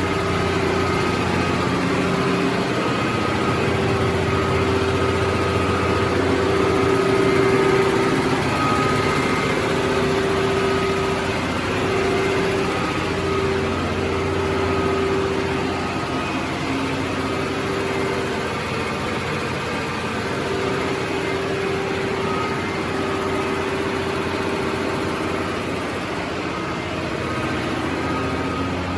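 Diesel machinery running steadily in a tug boat's engine room: a loud, continuous drone with a steady low hum and higher whining tones, swelling slightly about a quarter of the way in.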